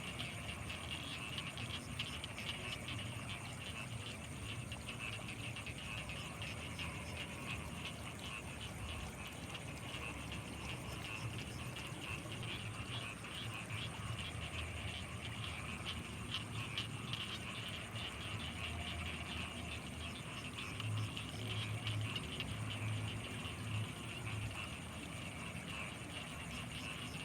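Night chorus of rice-field frogs: a steady, dense calling with deeper pulsing croaks that grow louder about three-quarters of the way through.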